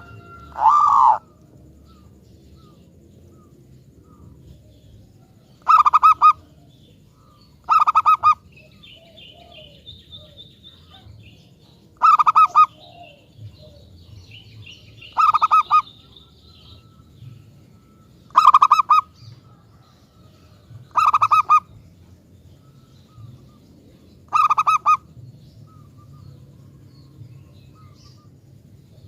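Zebra dove (perkutut) cooing: eight short, rapidly pulsed coos, one every two to four seconds. Faint high chirping can be heard between some of the calls.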